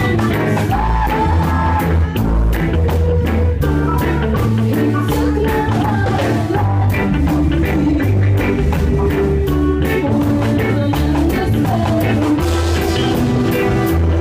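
A live band playing a song, loud and steady, with a regular drum beat and a bass line moving under guitar.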